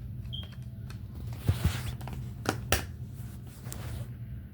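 Plastic DVD case being handled and opened, a rustle and a few sharp clicks and knocks of the plastic.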